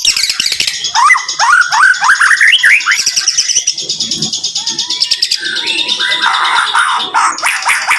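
White-rumped shama (murai batu) singing a dense, rapid-fire song: a quick run of rising whistles, high fast trills, then a harsh chatter and rapid clicking notes near the end.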